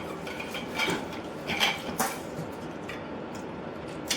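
Cutlery clinking against plates and serving dishes as food is served and eaten, with a few sharp clinks in between.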